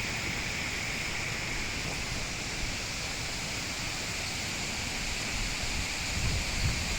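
Steady rushing hiss of a waterfall's falling water. Low buffeting thumps of wind on the microphone come in near the end.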